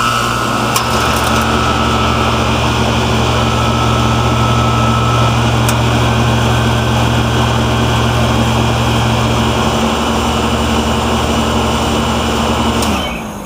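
Coleman heat pump running in cool mode: a loud steady mechanical hum over an airy rush. A deeper hum joins about a second in, and the unit cuts off abruptly near the end.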